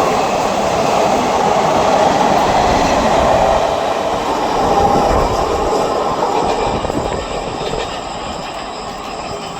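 Passenger express train running past, a steady rumble and rattle of coaches and wheels on the rails, easing off somewhat in the last few seconds.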